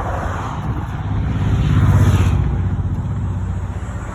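Nissan 240SX's 2.4-litre four-cylinder engine running with a steady low rumble, growing louder about two seconds in and then easing back.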